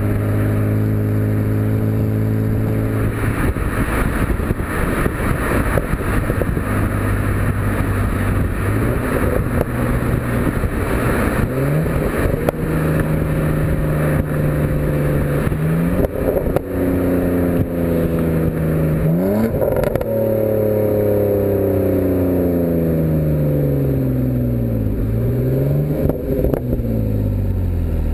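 BMW E90 328xi's inline-six engine and BMW Performance exhaust running under way: the pitch holds steady, then jumps up sharply three times around the middle, then falls away and climbs again near the end.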